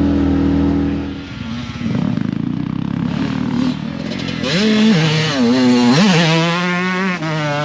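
Off-road vehicle engine running, first at a steady drone, then revving up and down several times in the second half as it is ridden.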